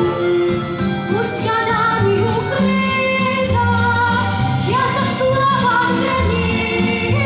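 A female voice singing a song in Russian over instrumental accompaniment.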